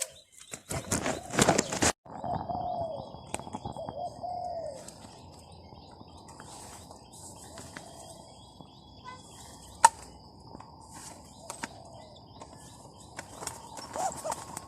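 A caged zebra dove cooing a short phrase of a few rolling notes, with a loud rustling burst just before it.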